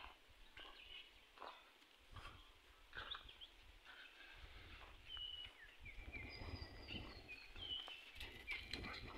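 Faint birds calling in short high chirps and a few longer whistles, over a low rumble of wind on the microphone.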